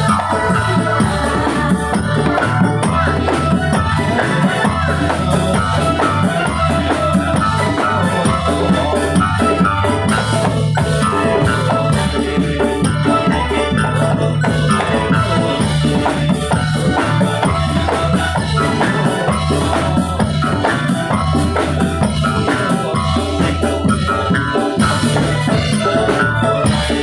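Ndolalak dance accompaniment music played live: drums and rattling percussion keeping a steady beat under held melody tones.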